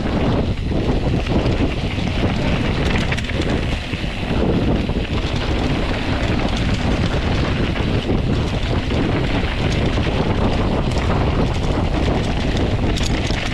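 Wind buffeting the microphone over the steady clatter and rattle of a mountain bike ridden fast down a rocky singletrack.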